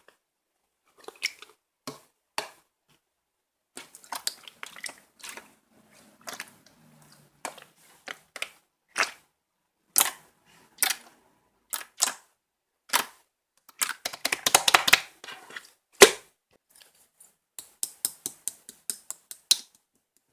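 Clear slime being squeezed and poked by hand: sharp wet popping clicks at irregular intervals, with a dense crackling run shortly after the middle and one loudest snap near the end.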